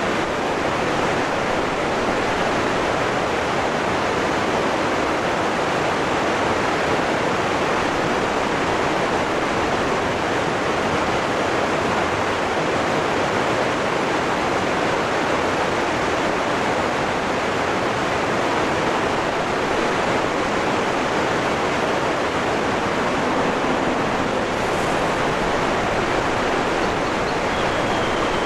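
Waterfall rushing, a steady, even roar of falling water that never changes. A faint, short, high sound comes near the end.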